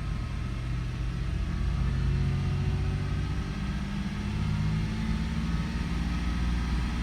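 2002 Toyota 4Runner's 3.4-litre V6 running with its mass airflow sensor unplugged, on default fuelling values, given light throttle: the revs rise gently a couple of times and it accelerates fine without stalling, pointing to the MAF sensor as the cause of the start-stall.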